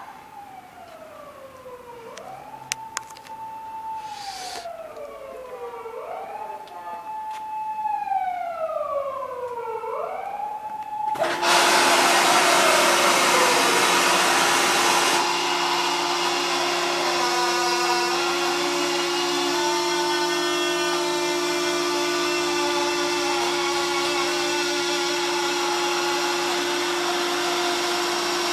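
A siren wails, its pitch rising, holding and falling about every four seconds. About eleven seconds in, a loud, steady rushing machine noise with a constant hum starts suddenly and drowns it out, easing slightly a few seconds later.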